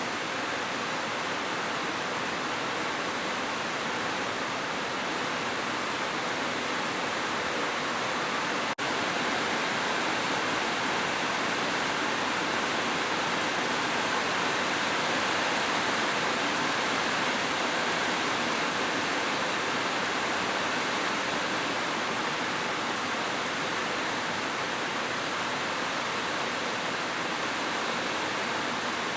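Heavy rain falling steadily, an even hiss without separate drops, with a momentary dropout a little under nine seconds in.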